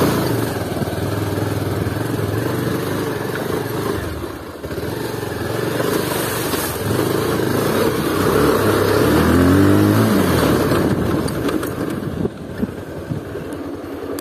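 Bajaj Pulsar 220F's single-cylinder engine running as the motorcycle rides a rough gravel and mud track. The engine revs up and back down about nine to ten seconds in, then eases off near the end.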